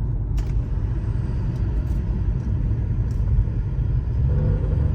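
Car engine and exhaust rumbling, heard from inside the cabin while driving, with the engine note climbing slightly near the end as the gas is pressed. The exhaust has a raspy drone that the driver puts down to running over a dead deer, which left debris up under the exhaust.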